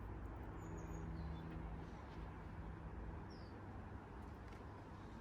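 A few short, faint high bird chirps over a steady low hum.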